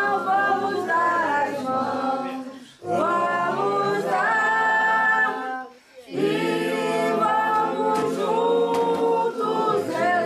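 A group of voices, women's among them, singing together unaccompanied in long phrases, with short breaks for breath about three and six seconds in.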